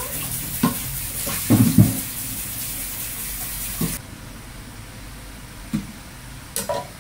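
Pork, onion and garlic sizzling as they fry in a stainless steel stockpot, with a few soft knocks. The sizzle cuts off suddenly about four seconds in.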